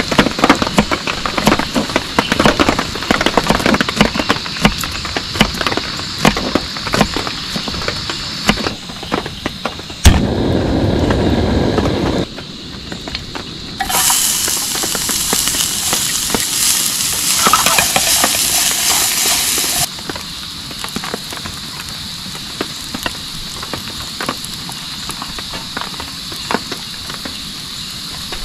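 Heavy rain pattering densely, broken off by abrupt cuts to other steady hissing sounds. The brightest hiss, in the middle, sounds like food sizzling in a pan.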